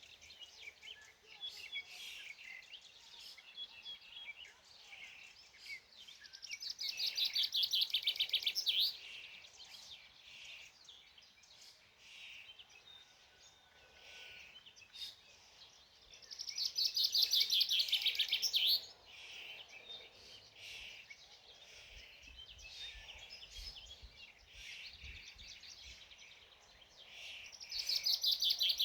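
Songbirds singing: one bird repeats a loud, rapid trilled phrase about two and a half seconds long three times, roughly every ten seconds, with quieter chirps from other birds in between.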